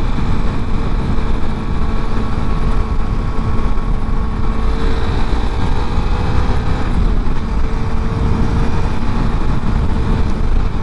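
Suzuki GW250's 248 cc parallel-twin engine running steadily, its pitch drifting slightly in the middle, under heavy wind rush on the microphone.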